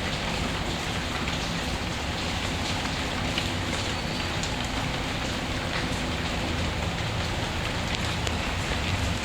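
Steady, even rain falling, with faint occasional crackles of a fireplace beneath it.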